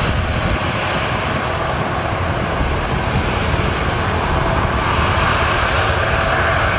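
Airliner engines running, a steady broad rush with a faint whine that grows a little louder about five seconds in.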